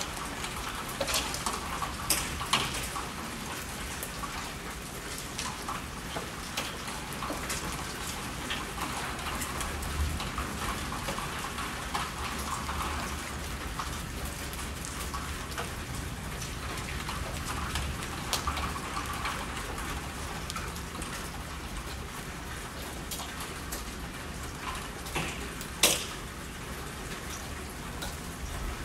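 Steady rainfall, with individual drops ticking close by on a surface and a single sharper tap near the end.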